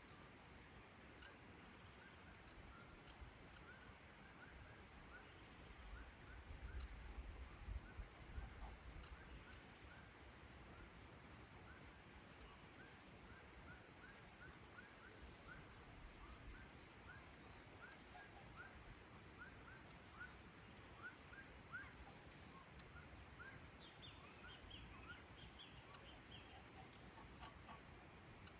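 Faint evening countryside ambience: a steady high insect hum under many short, repeated chirping bird calls, with more calls near the end. A low rumble swells briefly about six to nine seconds in.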